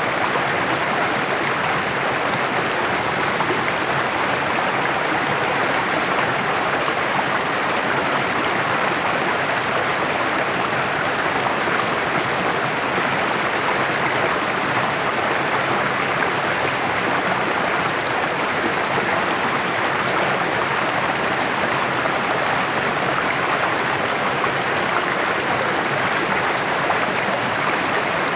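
Shallow mountain creek babbling and splashing over rocks, a steady, unbroken rush of water.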